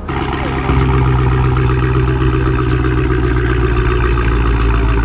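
A car engine running loud and steady, held at high revs, stepping up in level just under a second in.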